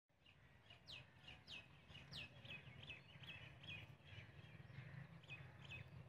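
Faint small-bird calls repeated over and over, short sharp notes that drop in pitch, about two a second with a short pause near the middle, over a steady low background hum.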